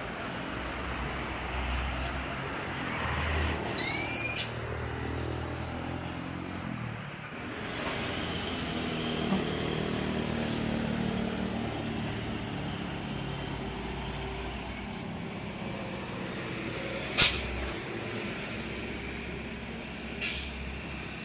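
Heavy vehicle and heavy-equipment engines running steadily at a roadside, with a short, loud high-pitched tone about four seconds in and two brief sharp sounds near the end.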